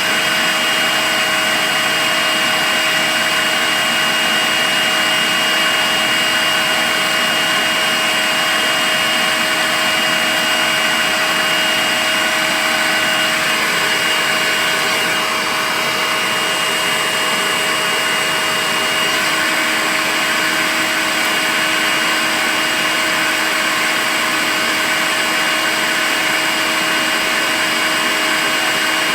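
Makita cordless vacuum cleaner running steadily: a continuous rush of air with a steady high whine and a lower hum, unchanging throughout.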